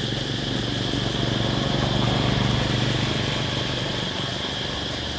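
Low engine hum that swells for a second or two in the middle and then eases off, over a steady high-pitched hiss.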